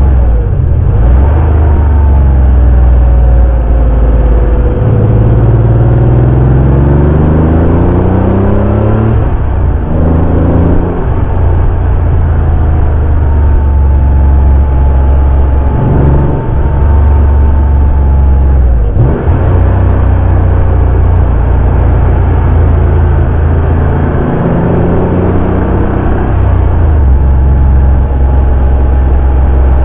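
Porsche 911 (964) air-cooled flat-six engine under way, its note climbing in pitch as it pulls through a gear. It drops back at gear changes a few times and runs steadier between the pulls.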